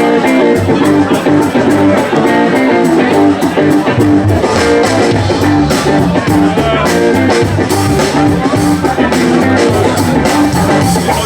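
Live band playing a blues-rock number: electric guitar over a steady drum beat.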